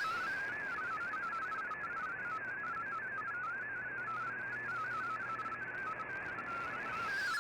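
MFSK digital data signal from a shortwave broadcast, heard through the receiver: a single tone hopping rapidly between nearby pitches, warbling like a fast whistle over steady radio hiss.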